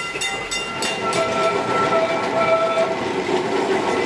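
Kolkata tram running on its rails: a few sharp rattling clicks in the first second, then a steady pitched tone held for about two seconds over a running rumble.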